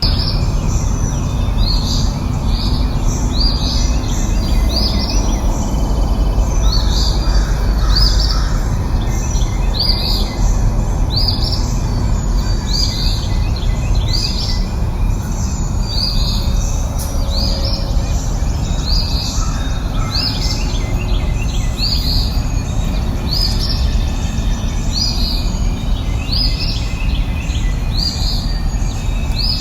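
A bird repeating a short, high chirp that falls in pitch, roughly once a second, over a steady low rumbling background.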